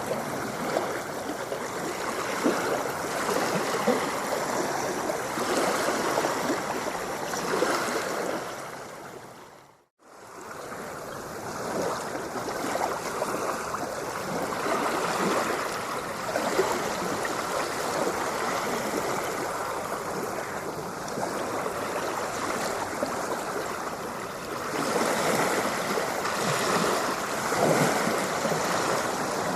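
Rushing, splashing water in a continuous wash, which fades out to silence and back in about ten seconds in.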